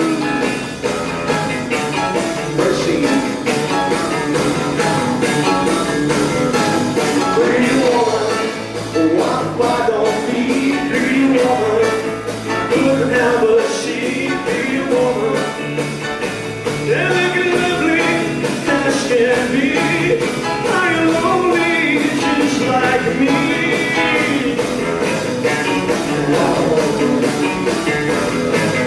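Rock band playing live, with a steady drum beat under a melodic lead line.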